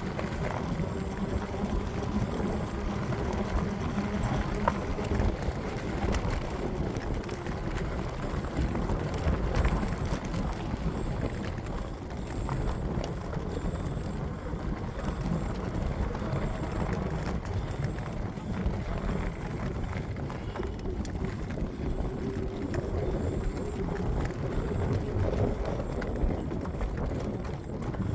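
Steady wind rumble on the microphone mixed with rolling road noise from a moving bike, unbroken throughout.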